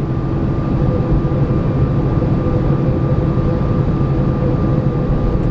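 Steady cabin noise of an Airbus A318 taxiing on the ground: a continuous low rumble from the engines at idle, with a few faint steady tones over it.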